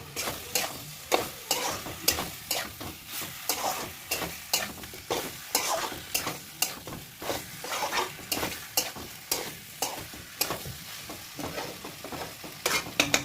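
Chicken pieces being stirred and fried in masala in a kadhai (Indian wok), sizzling steadily, with the stirring utensil knocking and scraping against the pan about twice a second.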